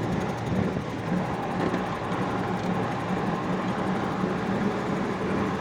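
Engine of an old army 4x4 truck running steadily, with a continuous low hum and a rumbling noise.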